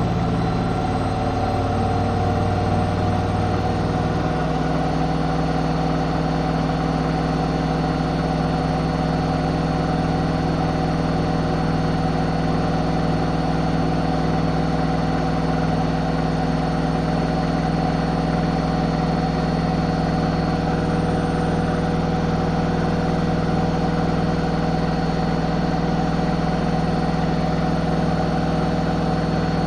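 Zanussi ZWH7148P washing machine running with a steady motor hum and whine. The pitch shifts slightly in the first few seconds, then holds constant as the drum keeps turning at an even speed.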